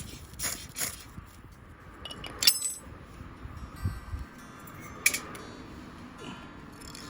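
A few sharp metallic clinks with a brief high ring, the loudest about two and a half seconds in and another about five seconds in: the metal wood-burning camp stove being knocked.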